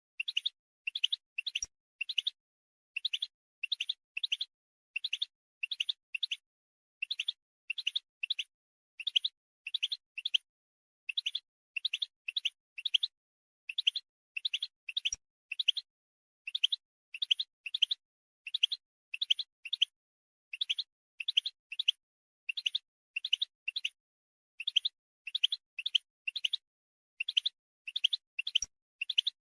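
European goldfinch calling: quick clusters of two to four short, high chirps, with about one cluster a second, repeated evenly throughout. These are the call notes that keepers play to stir male goldfinches into singing.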